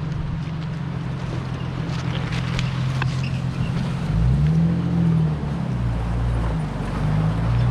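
Off-road vehicle engine running steadily at low revs, revving up briefly about four seconds in and again near the end, with scattered clicks over it.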